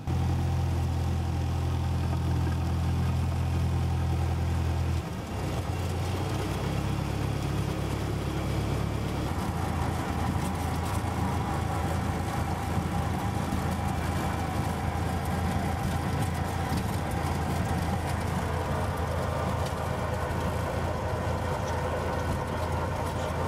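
Cessna 172SP's four-cylinder Lycoming piston engine and propeller running steadily, with a shift in its low drone about five seconds in and again near ten seconds.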